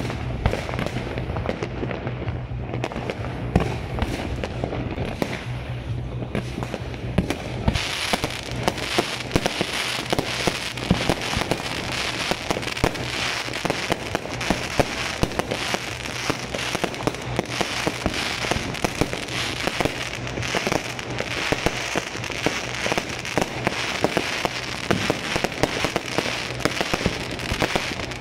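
Fireworks and firecrackers exploding, with a dense run of sharp bangs and crackling. The bangs grow denser and brighter about eight seconds in.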